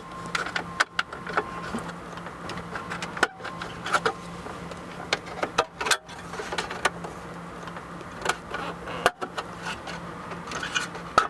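Scattered plastic clicks, taps and rattles as the black plastic trim piece around a 2007 BMW X5's iDrive selector is worked loose from its clips and lifted out, with a few sharper knocks, over a steady low hum.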